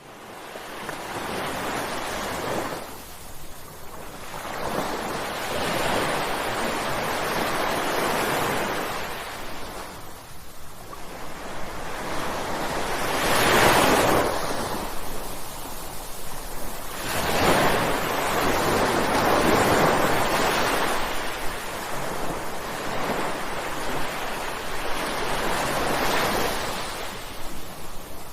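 Ocean waves crashing, one surge after another every few seconds. The sound comes in abruptly at the start, and the biggest wave breaks about halfway through.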